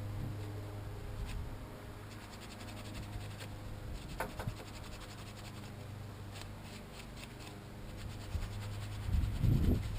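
Light scraping and rubbing of hands working on engine parts, with a couple of small clicks about four seconds in and a louder low bumping near the end, over a steady low hum.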